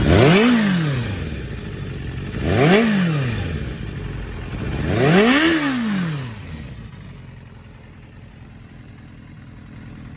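Suzuki GSX400 Impulse motorcycle engine blipped three times, each rev rising and falling back, about two and a half seconds apart. After the third rev it settles to a quieter, steady idle.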